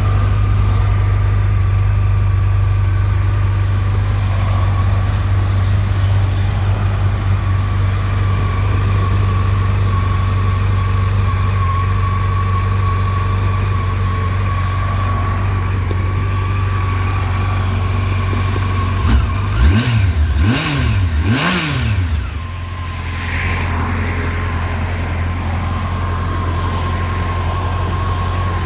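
Yamaha motorcycle engine idling steadily, with three quick blips of the throttle about two-thirds of the way through before it settles back to idle.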